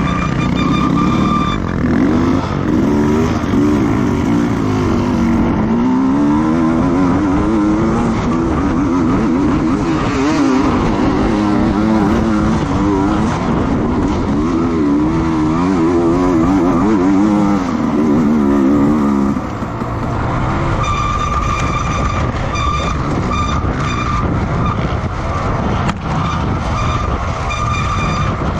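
Racing motorcycle engines on a circuit, their pitch rising and falling through revs and gear changes, fading about two-thirds of the way through. A steady high tone with overtones sounds at the start and again near the end.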